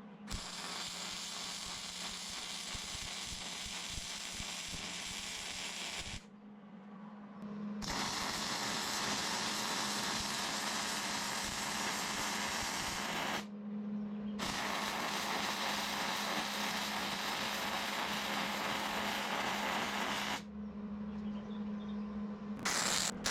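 Arc welding on thick steel, in three runs of about six seconds each that start and stop abruptly, with a steady hum from the welder continuing between them.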